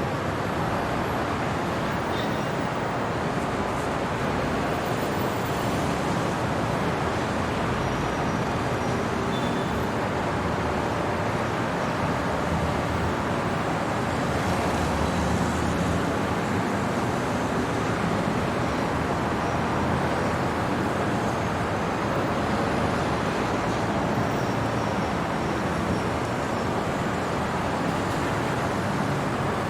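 City traffic noise: a steady wash of road vehicles that swells slightly about halfway through.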